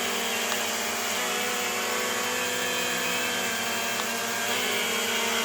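Propel Flex 2.0 mini quadcopter's motors and propellers whining steadily in flight, the pitch stepping up slightly about four and a half seconds in, with a few faint ticks.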